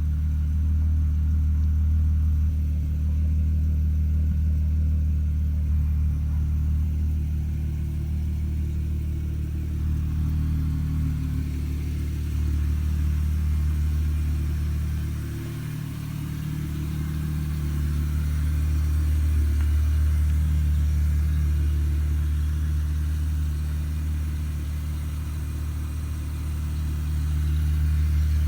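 Holden Commodore (Chevrolet Lumina) engine idling after a cold start through a modified, opened-up exhaust, giving a steady deep rumble. The sound dips briefly about halfway through, then settles back.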